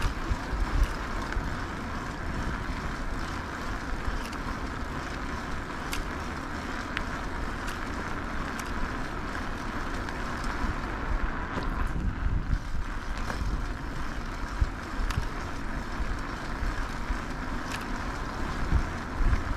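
Wind buffeting an action camera's microphone while riding an e-bike, with steady low rumble from the ride and a few faint clicks.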